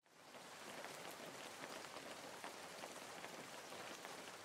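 Steady rain falling, a faint patter of many small drops, fading in at the very start.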